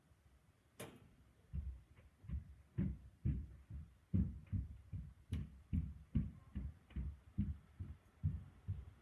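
A sharp snap, then a run of dull low thumps, two or three a second, with a second sharp snap about halfway through.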